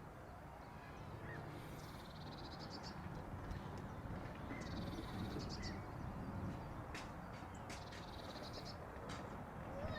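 A bird gives a short, high, rapidly pulsed rattling call about every three seconds, over a steady low rumble.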